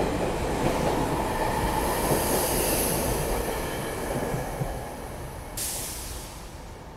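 SEPTA Regional Rail train passing along the platform, its wheels rumbling on the rails with a thin high squeal. The noise fades away once the last car has gone by, about five seconds in.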